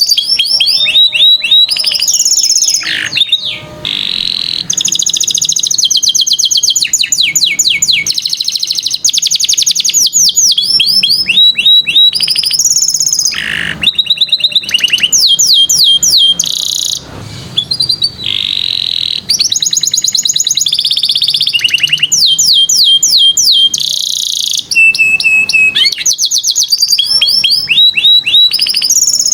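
Domestic canary singing a long, continuous song of fast trills and rapid repeated rising and falling notes, changing phrase every second or two with only brief pauses.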